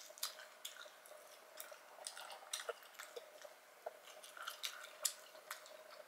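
Close-miked chewing of seafood boil, with irregular wet mouth clicks and smacks as sauce is licked from the fingers.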